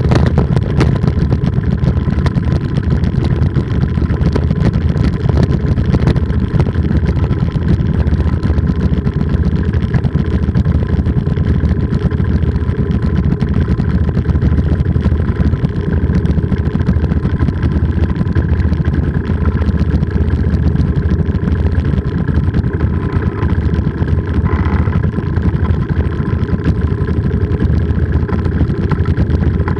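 Polini 190 single-cylinder two-stroke engine on a paramotor trike running steadily at an even throttle.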